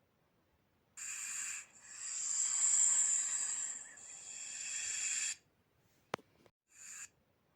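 Snake hissing in separate breaths: a short hiss about a second in, then a long drawn-out hiss of about three and a half seconds, a sharp click, and another short hiss near the end.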